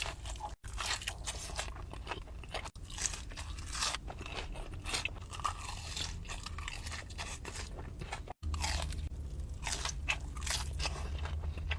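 Close-miked chewing and crunching of crispy fried food, with irregular crackly bites, broken by a few sudden cuts to silence.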